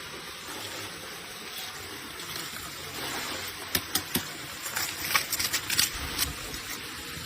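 Water sloshing with sand and gravel while panning for placer gold. About halfway in comes a run of sharp clicks and rattles, like pebbles knocking about in the pan.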